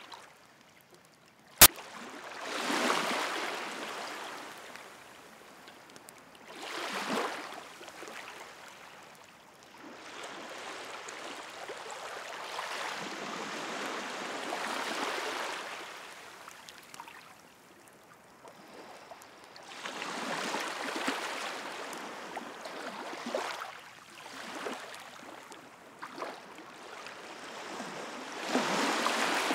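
Sea waves washing onto the shore in slow swells of surf, rising and falling every few seconds. A wood bonfire crackles, with one sharp, loud pop about a second and a half in.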